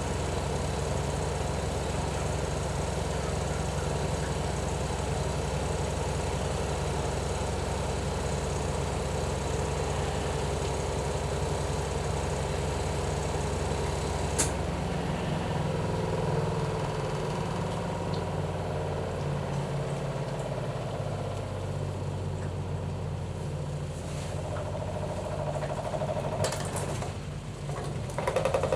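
Mother cat purring steadily and close up while her kitten nurses. There is a sharp click about halfway through, and after it the purr shifts in tone.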